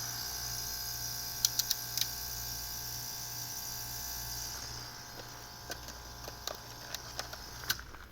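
Water-source heat pump running with a steady electrical hum and several steady whining tones, with a few sharp clicks and scattered light ticks. Near the end the hum and tones cut off suddenly, consistent with the unit dropping out on its low-pressure fault.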